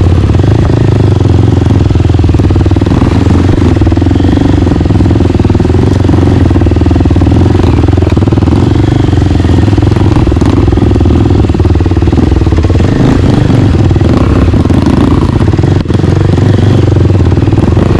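Single-cylinder four-stroke trail bike engine running continuously and loudly as the motorcycle rides along a dirt trail, with a brief drop in sound near the end.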